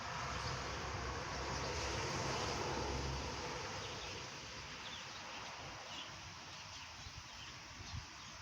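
Steady hiss of rain falling on foliage, with a low buzz for the first three seconds, scattered faint short high chirps, and a single tap near the end.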